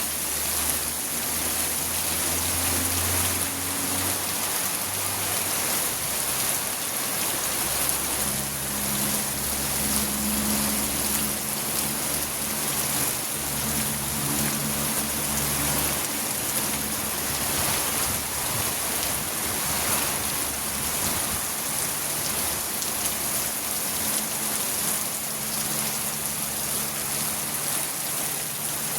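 Steady rain falling and pattering on surfaces, an even hiss with no break. A faint low hum comes and goes underneath several times.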